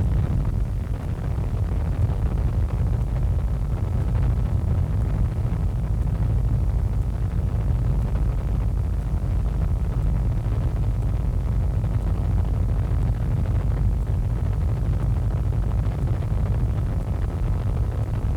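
Helicopter in flight, a steady low rotor and engine drone heard from inside the cabin, with a faint steady whine above it.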